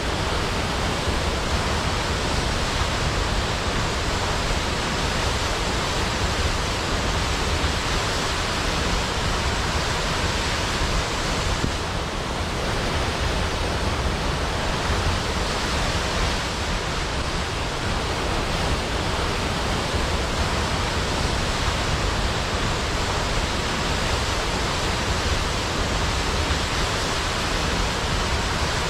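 Large waterfall crashing steadily into a pool, a constant full rushing noise with no breaks.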